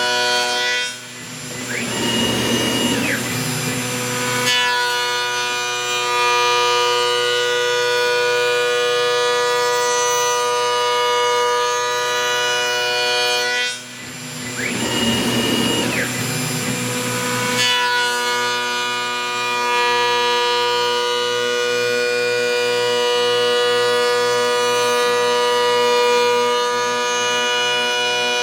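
CNC router spindle running with a steady high whine as it machines a wood panel. Twice, about 1 s and 14 s in, the sound dips and then turns rougher for about three seconds, with a higher whine that rises, holds and drops back as the machine makes another pass.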